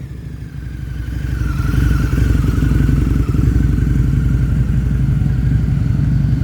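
Harley-Davidson V-Rod Night Rod's liquid-cooled 60° V-twin engine idling with a steady low rumble. It grows louder over the first couple of seconds, then holds.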